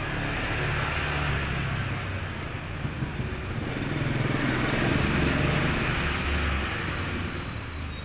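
A motor vehicle's engine passing, its rumble swelling to loudest about five seconds in and then fading.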